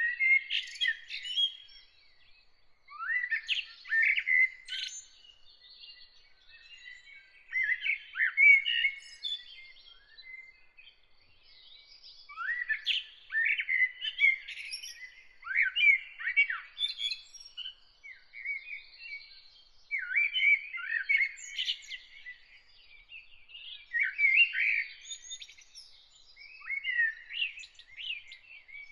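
A songbird singing in short, varied phrases of chirps and whistled notes, one every few seconds with brief pauses between them.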